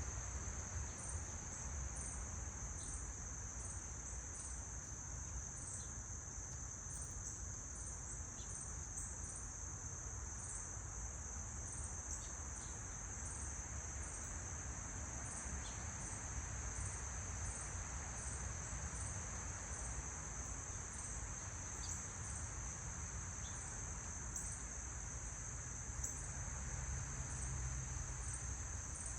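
A chorus of insects, likely crickets, keeping up one steady high-pitched trill, with a few faint scattered ticks over a low background hum.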